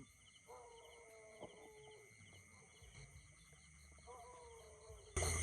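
Faint chicken calls: one drawn-out, slightly falling call about half a second in and a shorter one near four seconds, over a steady high-pitched drone. A much louder sound starts abruptly just before the end.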